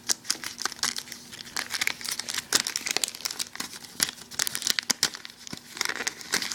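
Foil Yu-Gi-Oh booster pack wrapper being torn open and crinkled, a run of irregular crackles and sharp crinkles.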